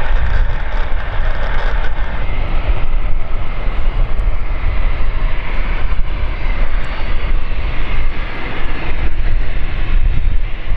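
Steady jet engine noise from a small business jet, heavily buffeted by wind on the microphone, which gives a loud, constant rumble.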